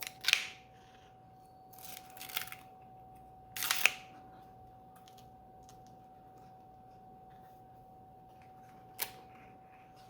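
Pages of a hardcover book being turned by hand: three quick rustling swishes in the first four seconds, then a single light tap near the end.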